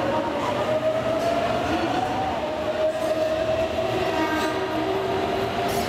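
Electric commuter train pulling out of the platform, its motors whining in a tone that dips and then climbs in pitch as it gathers speed, over a steady rumble of the cars.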